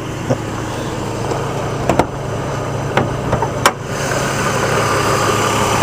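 Chevrolet Trailblazer engine idling steadily, with a few faint clicks, growing a little louder about four seconds in.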